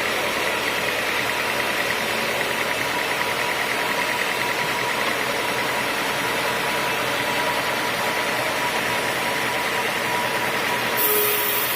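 Sawmill machinery running steadily: a continuous mechanical noise with a constant whine. About eleven seconds in there is a short burst of hiss.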